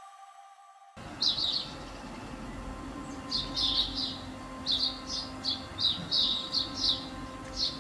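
Background music fading out, then a small bird giving short, high chirps in quick clusters, over a faint steady low hum.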